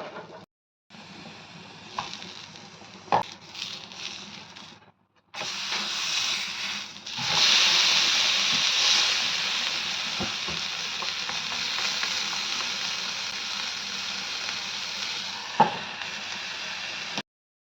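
Food sizzling in hot oil in a pan, with a few sharp clicks. The sizzle jumps louder about seven seconds in, then slowly eases.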